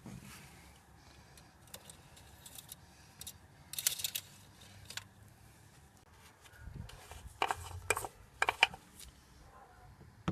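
Scattered clicks and rattles of parts being handled in a car's engine bay during an oil check, with a loud cluster about four seconds in and several sharp clicks between about seven and nine seconds.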